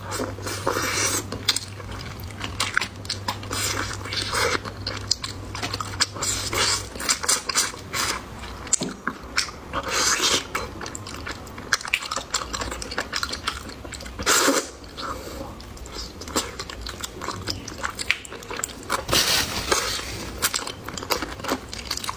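Close-miked chewing and biting of food, wet and crunchy, with irregular clicks of utensils against dishes.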